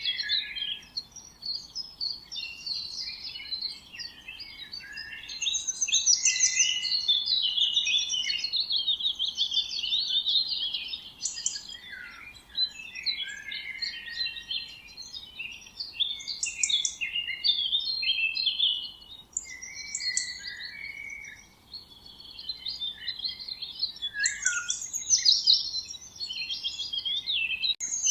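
Several songbirds chirping and trilling at once in a busy, continuous chorus of quick high notes, with brief lulls around the middle.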